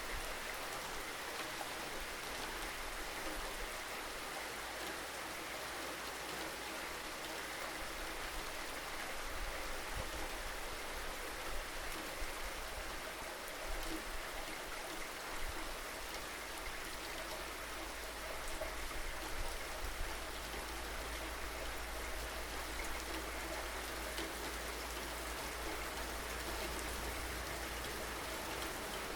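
Steady rainfall: an even hiss of rain with scattered louder drop ticks.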